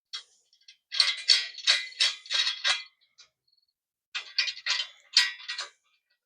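Metal hand tools (wrenches) clinking and rattling against each other as they are handled, in two bursts of quick clicks.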